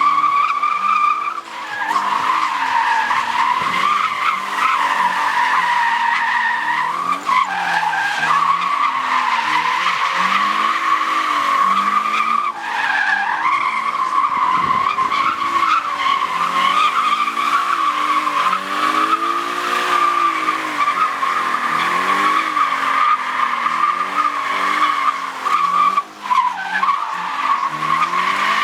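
Car tyres squealing without a break in a long burnout or drift, with the engine revving up and down beneath. The squeal falters briefly a few times.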